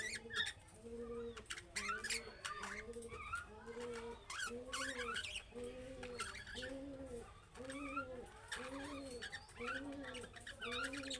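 Budgerigars chirping and warbling in quick high bursts, over a low cooing call repeated steadily about one and a half times a second.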